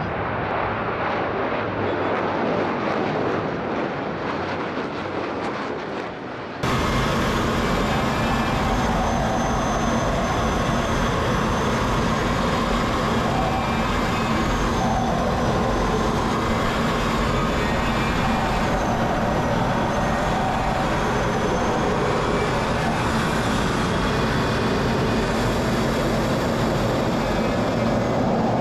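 Jet noise from T-50B aerobatic jets flying a display, a dense rushing roar. About six and a half seconds in it changes abruptly to a steadier, fuller roar with a faint wavering whine above it.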